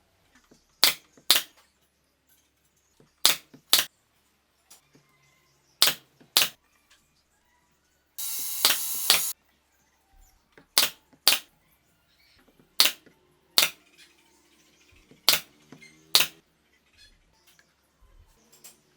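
Sharp clacks in pairs about half a second apart, repeating every two to two and a half seconds, with a hiss lasting about a second near the middle.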